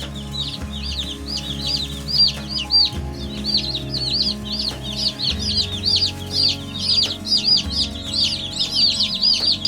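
A brood of young Cornish cross meat chicks peeping without pause, many high, arching chirps overlapping at several a second.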